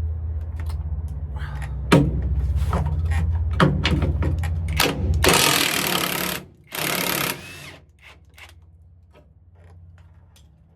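Socket tool working a driveshaft carrier-bearing bolt loose: sharp clicks and knocks over a low hum, then two loud bursts of an impact wrench about five and seven seconds in, with only light tool clinks after.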